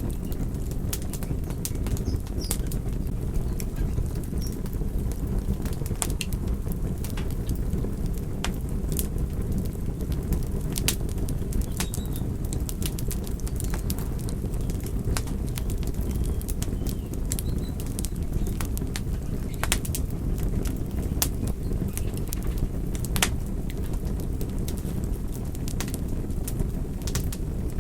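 Wood fire crackling: frequent irregular sharp snaps and pops over a steady low rumble of burning.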